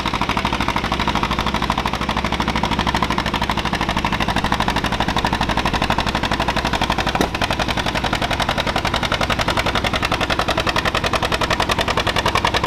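John Deere pulling tractor's engine running flat out under load while pulling the sled, a rapid even firing beat with a single sharp click about seven seconds in. The engine is not sounding good on this run, and the tractor pops and spins before it stops short.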